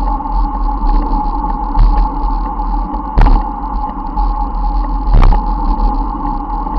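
Wind buffeting the microphone and road noise from a moving bicycle, with a steady low rumble and two sharp knocks about two seconds apart.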